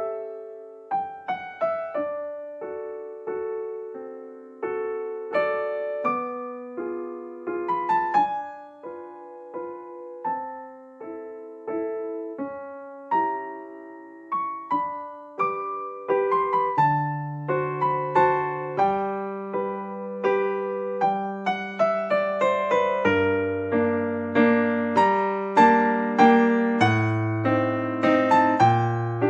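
Background piano music: a gentle melody of single struck notes, with a lower bass line joining about halfway through and the playing growing fuller toward the end.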